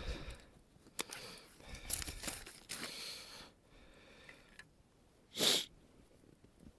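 A few quiet clicks and rustles of handling, then one loud, short sniff about five and a half seconds in.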